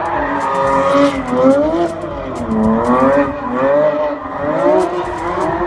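Car engine with a loud exhaust revving up and down over and over, its pitch rising and falling every second or so, with scattered short crackles.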